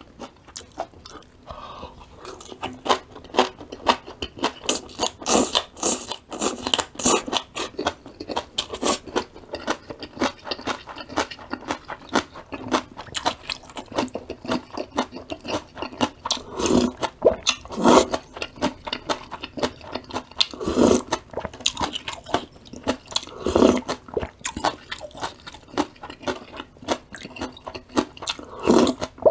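Close-miked chewing of crisp vegetables, sweet potato stem kimchi and bean sprouts: a dense run of quick, crisp crunches, with a few louder, duller mouth sounds in the second half.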